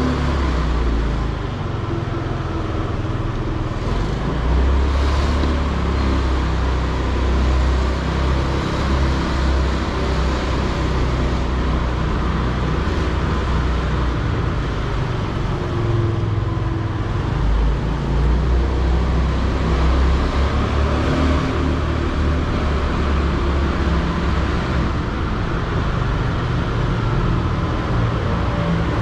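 Wind buffeting a motorcycle-helmet-mounted GoPro Hero 8 whose microphone is covered by a foam sponge, heard as a heavy, uneven low rumble, with the motorcycle's engine running underneath at about 40–50 km/h riding speed.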